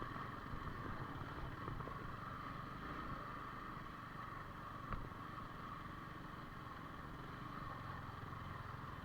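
Yamaha R15 V4 motorcycle running steadily with a low rumble, with a brief click about five seconds in.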